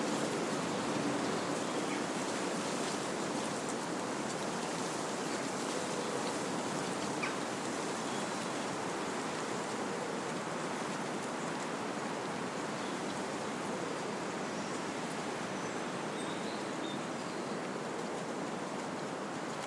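Wind blowing steadily through trees, a continuous rushing of leaves and branches that eases slightly towards the end.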